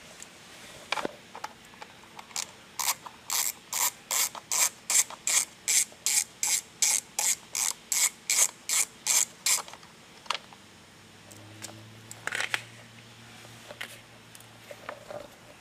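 Ratchet wrench clicking in an even run, about three clicks a second for some seven seconds, as an Allen bolt is backed out. A few separate clicks and a brief rustle come before and after the run.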